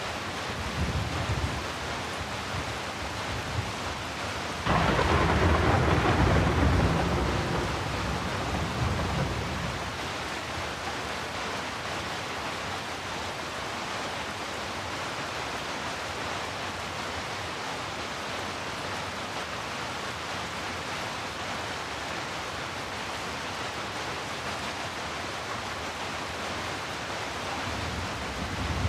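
Steady rain falling, with a sudden clap of thunder about five seconds in that rumbles and fades away over several seconds.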